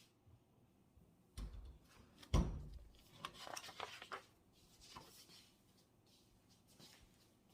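Objects being handled on a desk: two soft thumps about one and a half and two and a half seconds in, the second the louder, then rustling and a few light clicks.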